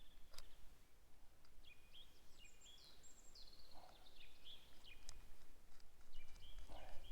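Small songbirds chirping: many short, high calls in quick succession, some sliding or stepping in pitch. A few sharp clicks stand out, one shortly after the start, over a low rumble.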